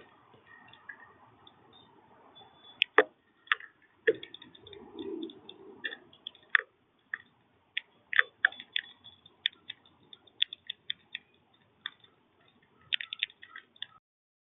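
Birds pecking and cracking seeds at a feeder: irregular sharp taps and clicks, some in quick runs, with a soft rustle lasting a couple of seconds about four seconds in.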